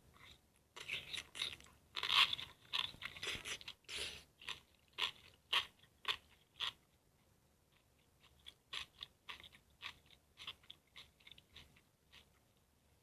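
Close-miked eating: crisp food being bitten and chewed with quick crackling crunches, a louder run in the first half, a short pause, then softer chewing crunches.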